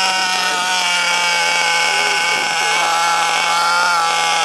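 Small nitro engine of an RC truggy running at a steady high idle: one unwavering buzzing pitch with no revving.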